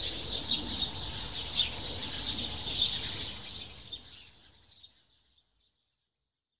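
Many small birds chirping at once in a busy, overlapping chorus, fading out about four seconds in.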